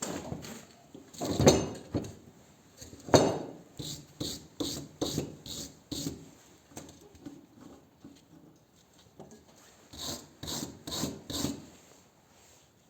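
Hand tool rasping against welded metal in quick back-and-forth strokes, about two a second, in two spells with a pause between. Two heavier knocks come in the first few seconds.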